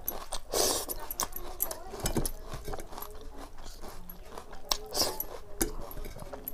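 Close-miked eating: chewing and wet mouth sounds from eating water-soaked rice by hand, with many short clicks and a couple of brief louder smacking noises.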